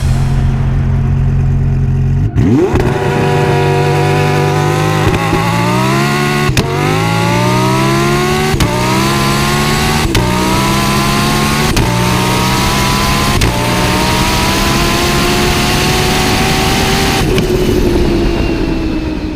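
Twin-turbo Lamborghini Huracán V10 at full throttle, accelerating hard through the gears. Its pitch climbs in each gear and drops at about six quick upshifts, about two seconds in and then every second and a half or two. The last gear pulls for several seconds before the sound fades near the end.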